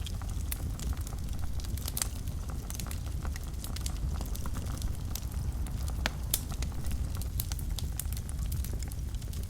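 Wood fire burning in a fireplace: a steady low rumble of flames with frequent sharp pops and crackles, scattered irregularly, a few louder ones standing out.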